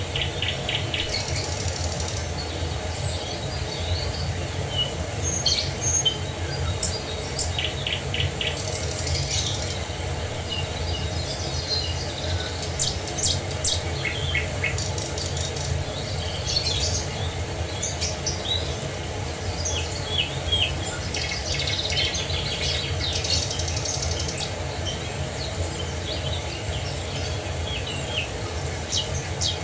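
Several birds chirping and trilling in short, overlapping calls over the steady, even rush of falling water.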